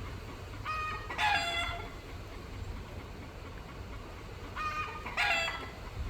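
Rooster crowing twice, about four seconds apart. Each crow is short, about a second long, with a brief first note and a louder second part.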